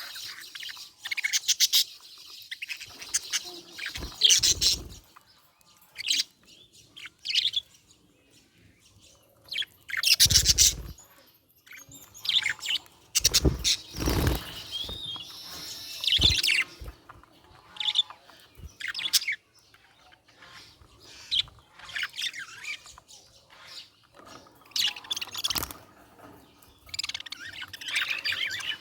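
Budgerigar chirping and chattering in irregular bursts, with a few short thumps mixed in.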